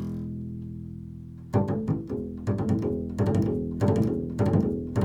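Improvised music on a low stringed instrument: a held low note fades away, then about a second and a half in a run of plucked notes begins, two or three a second.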